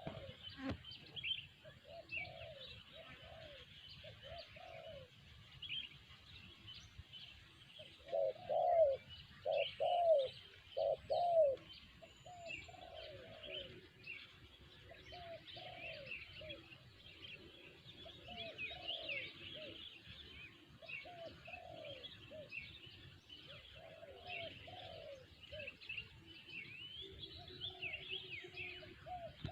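Spotted doves cooing: short low coo notes repeated in phrases, loudest about eight to twelve seconds in, over continuous high chirping of small birds.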